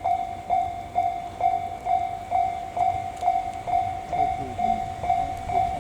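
Japanese railway level-crossing alarm ringing: one steady electronic tone repeated about twice a second, warning that a train is approaching.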